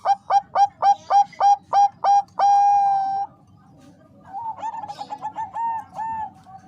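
Zebra dove of the Bangkok perkutut strain cooing its staccato song: about nine quick, clipped notes, roughly four a second, that run into one long held coo. After a short pause a second, softer phrase of quick notes follows, ending in a few longer ones.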